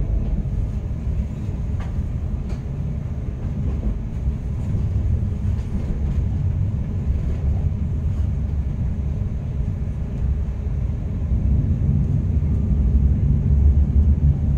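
Passenger train running along the track, heard from inside the carriage: a steady low rumble of wheels on rail, with a few faint clicks.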